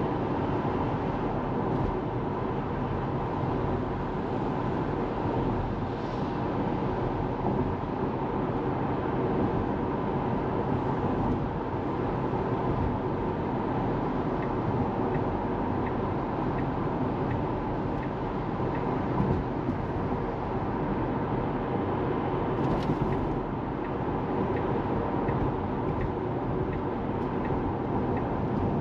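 Steady road and tyre noise from a moving Tesla Model 3, an electric car, so there is no engine sound. Faint regular ticks, about one a second, come through the second half, with a brief higher sound a little after that.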